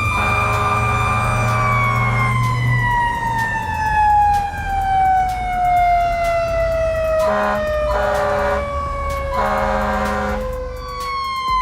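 Fire truck siren wailing: a high held tone that slowly falls in pitch for about nine seconds, then winds back up near the end. A horn sounds at the start and three more short horn blasts come around the eighth to tenth seconds.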